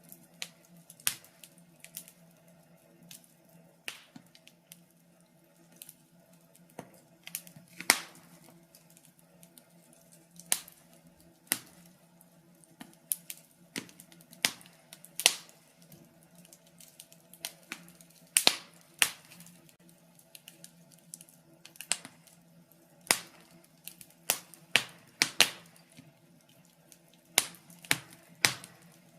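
Wood fire crackling in a fireplace: irregular sharp snaps and pops, sometimes single and sometimes in quick clusters, over a faint steady low hum.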